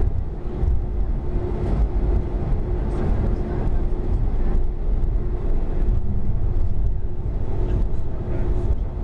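Boeing 737-300 engine noise heard from inside the passenger cabin: a steady low rumble and hum, with a faint murmur of voices.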